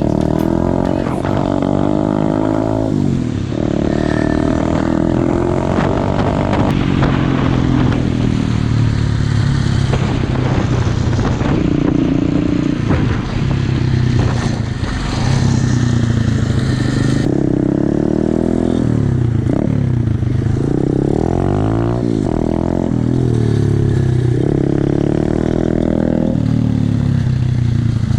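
125cc pit bike's single-cylinder engine running under way, its pitch climbing and dropping again and again as it is revved and shifted.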